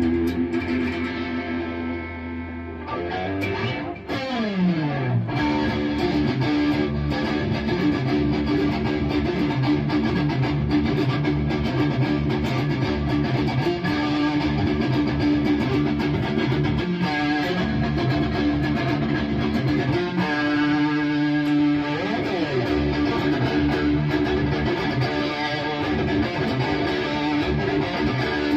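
Distorted electric guitar played through a Bogner Uberschall preamp: a held chord, a long slide down in pitch about three seconds in, then sustained chords and rhythmic low-string riffing.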